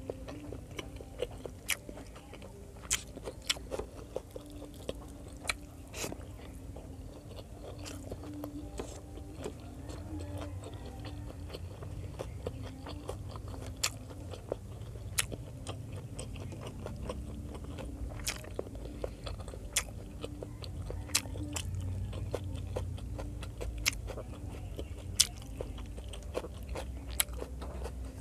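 Close-miked chewing and biting of pork adobo and rice, with frequent sharp mouth clicks and crunches over a steady low hum.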